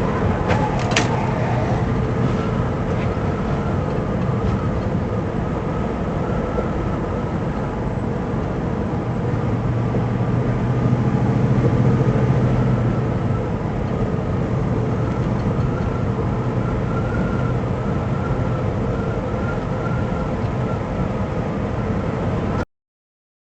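Steady running noise of a vehicle on the road, engine and tyre hum, with a few sharp clicks about a second in. It cuts off abruptly near the end.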